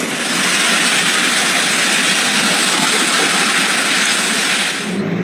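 Loud, steady rush of water with no rhythm or pitch, cutting off suddenly near the end.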